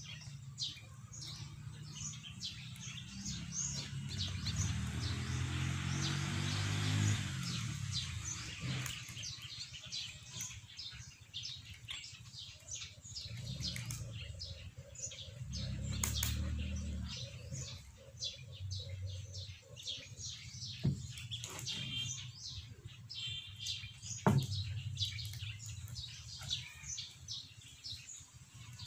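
Small birds chirping busily, with many short high chirps throughout. A rushing noise swells and fades about five to eight seconds in, and a few sharp knocks come later.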